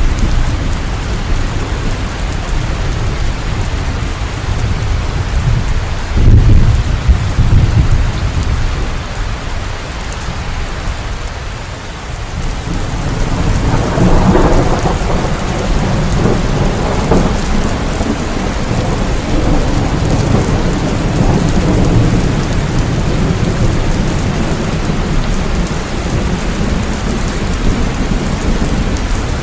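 Steady rain falling with thunder: a short low rumble about six seconds in, then a longer rolling peal from about fourteen seconds that slowly fades back into the rain.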